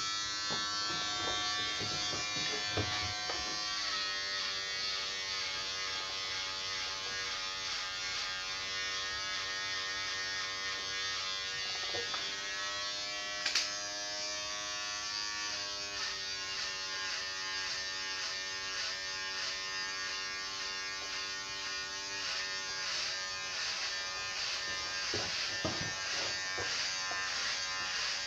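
Electric hair clippers running with a steady buzz that shifts in pitch a few times. There is one sharp click about halfway through.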